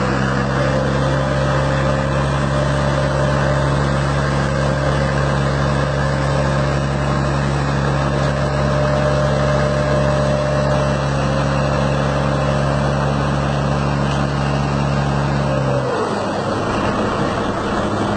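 Heavy truck engine running at a steady, raised speed, dropping back down near the end.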